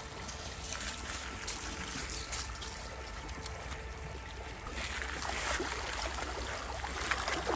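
Stream water running steadily, with the rush growing louder about five seconds in; the current is strong.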